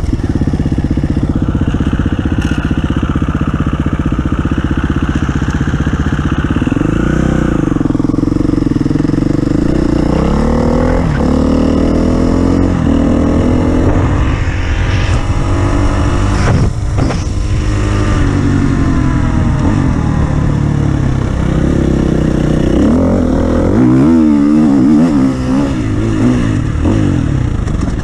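Engine of an offroad vehicle running hard under load, its pitch repeatedly rising and falling as it revs up and eases off, with some rattling and clatter.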